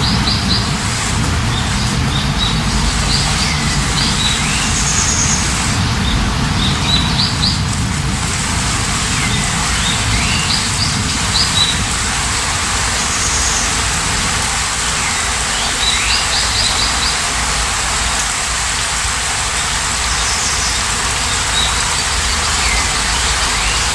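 Steady rain with birds singing over it: a short phrase of a curving note followed by a quick run of high chirps recurs every few seconds.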